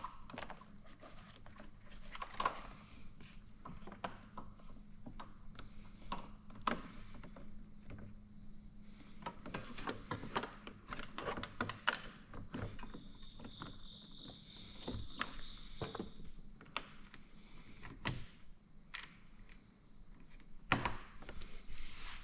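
Scattered clicks, taps and knocks from parts and tools being handled during installation work, over a faint steady hum. A thin high whine sounds for a few seconds in the middle.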